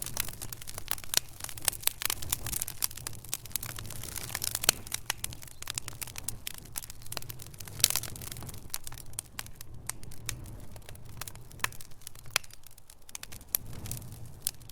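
Wood fire burning in a fireplace: logs crackling with dense, irregular pops and snaps that thin out after about nine seconds, over a low steady rumble.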